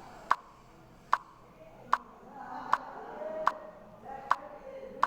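Sharp clicks repeating at an even pace, about one every 0.8 seconds.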